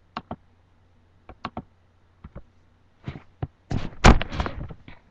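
Handling noise close to a webcam microphone: a few sharp clicks and taps in quick pairs, then a rush of bumping and rustling from about three seconds in, with a heavy thump near four seconds.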